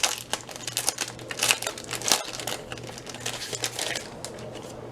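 Packaging of a pack of 3D die-cut paper toppers being opened and handled: irregular crinkling and rustling, busiest in the first couple of seconds and tailing off near the end.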